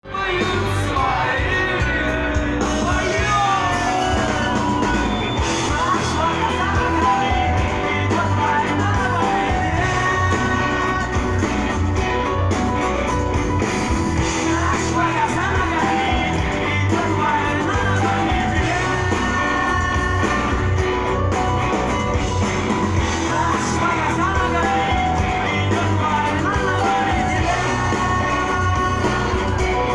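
Rock song with singing over guitar and a steady beat, starting right at the opening.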